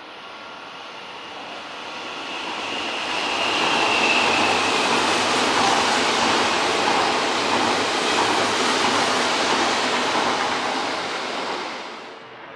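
Odakyu 50000 series Romancecar VSE electric train passing at speed. The rumble of wheels on rails builds over a few seconds and holds loud, with a brief high whine as it arrives, then cuts off suddenly near the end.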